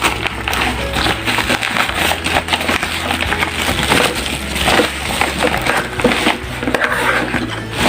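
Packaging being handled and opened: dense crackling and rustling with many small sharp crackles, over quiet background music with a steady bass.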